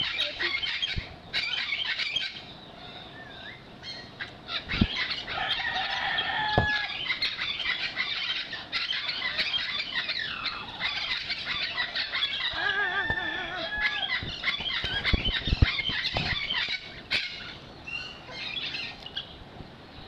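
Many birds calling and squawking over one another in a busy chatter of chirps and squeals, with a few sharp knocks.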